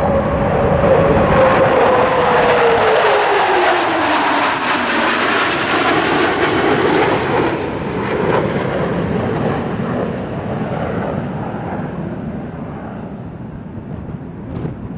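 Aircraft passing by in flight: a loud engine roar with a whine that falls steadily in pitch over the first few seconds as it goes past, then the roar slowly fades away.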